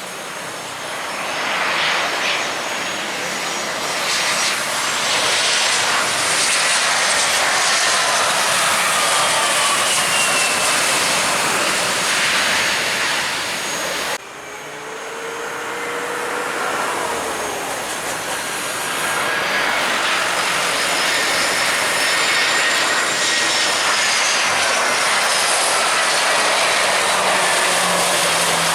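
Jet airliner passing close by: a loud engine rush with a whine that slides in pitch as it goes past. It is cut off suddenly about halfway through, then a second jet builds up and passes the same way.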